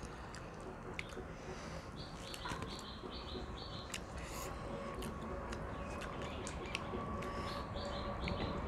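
Faint bird chirping in quick runs of short, high, repeated notes, heard twice: once about two seconds in and again near the end. A faint steady hum comes in about a third of the way through and slowly grows.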